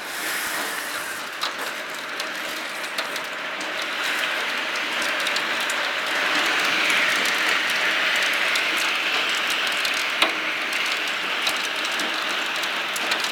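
Hail and heavy rain pelting down: a dense hiss dotted with many sharp ticks of hailstones striking, growing louder about four seconds in.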